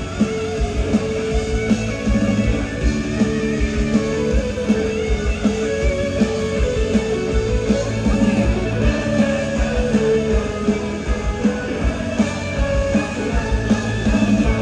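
Live rock band playing an instrumental passage, led by guitar over a steady drum beat, heard loud through the venue's PA.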